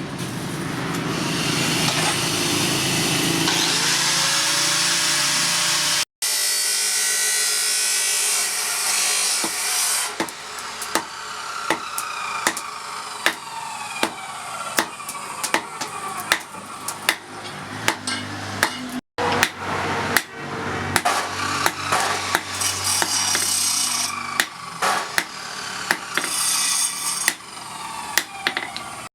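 Power tool cutting or grinding steel in a steady dense noise. After a couple of edits this gives way to repeated hammer blows on the steel, about one to two a second and quicker near the end, each ringing briefly: blacksmith work on a truck leaf spring being made into a chopper blade.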